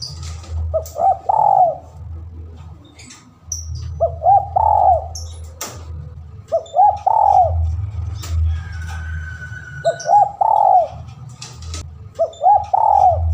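Spotted dove (tekukur) cooing in a steady series of phrases, five in all, about one every three seconds, each a short group of arching notes. A steady low hum runs underneath.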